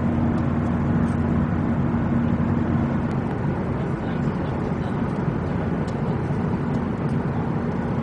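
Boeing 737-800 passenger cabin noise: the steady drone of the jet engines and rushing air, with a steady hum that fades about three seconds in and returns near the end.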